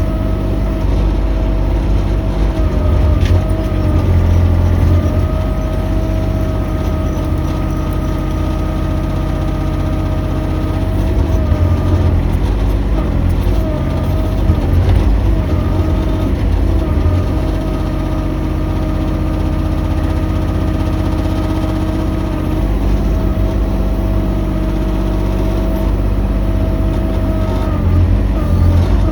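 Mini excavator running as it works, its engine's low note swelling and easing now and then, with a steady high whine over it.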